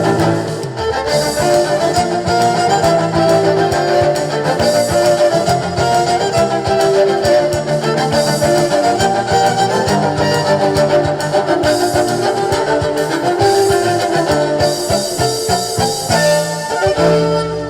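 A live band playing an instrumental passage, with held melodic notes over a steady bass line.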